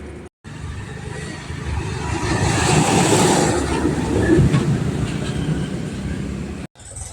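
Continuous mechanical rumble and rattle, louder in the middle, broken off abruptly just after the start and again near the end.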